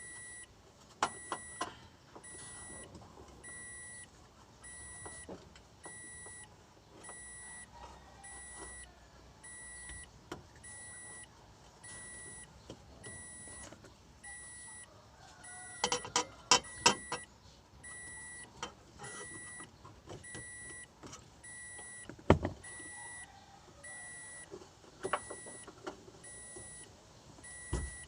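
An electronic beeper sounding a steady, evenly repeated high beep, about three beeps every two seconds. Scattered metallic clinks and knocks sound over it, with the loudest cluster about halfway through.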